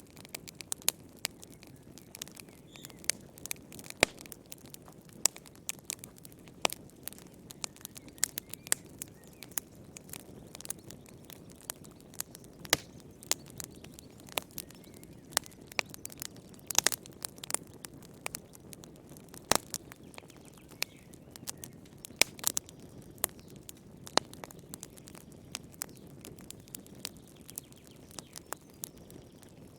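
Wood fire in a fireplace crackling: a soft steady rush of flame with many sharp, irregular pops and snaps, several a second.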